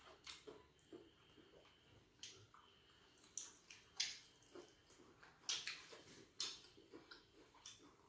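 Faint eating sounds: irregular wet clicks and smacks of a person chewing fufu with stew and fried fish, with a few sharper clicks in the middle.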